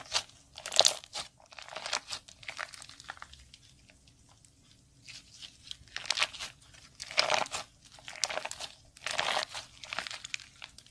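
Slime being squeezed and kneaded by hand, in repeated short bursts of crackling noise with a lull a few seconds in.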